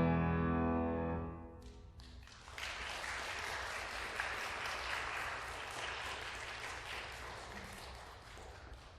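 A closing piano chord rings out and fades away, then audience applause starts about two and a half seconds in and slowly dies down.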